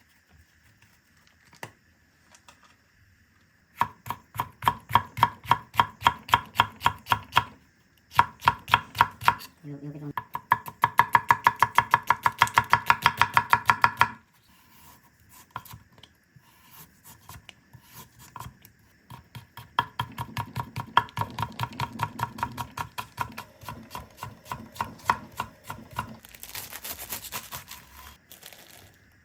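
Kitchen knife chopping vegetables on a cutting board in three runs of quick, even strokes, the fastest a steady rapid patter of several strokes a second; near the end a short hissing scrape.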